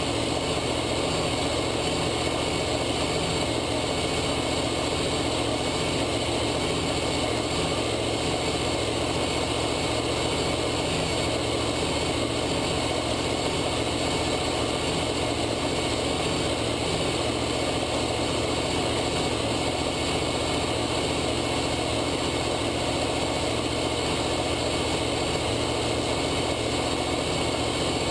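A steady engine hum that stays even throughout, with no impacts or changes in pitch.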